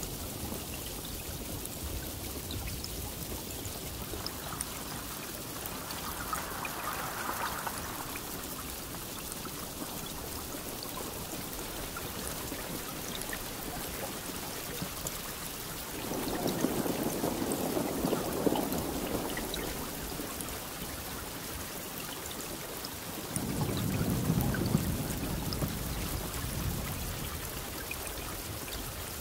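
Steady rain falling, with two rolls of thunder swelling up over it, the first about halfway through and the second a few seconds later.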